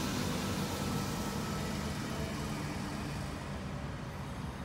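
Double-deck electric passenger train running past, a steady rumble and rail noise that fades near the end as the last carriage goes by.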